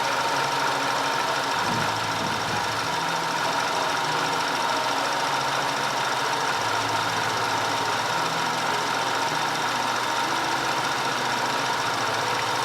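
Audi 2.0 TFSI turbocharged four-cylinder engine running steadily at idle, with a few steady whining tones over the engine note.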